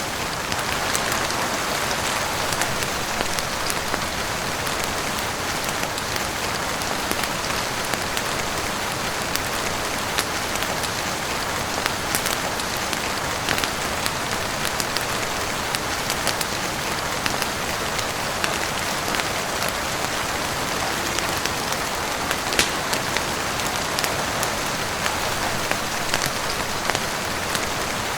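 Heavy rain falling steadily on a roof and windows, an even hiss with scattered sharp ticks, one louder about three-quarters of the way through.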